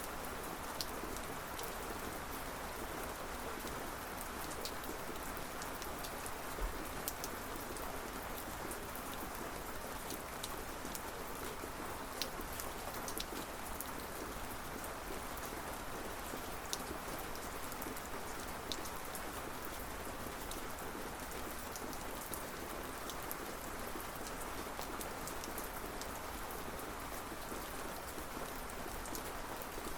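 Steady rain falling, with scattered sharp drips and taps of individual raindrops on a surface.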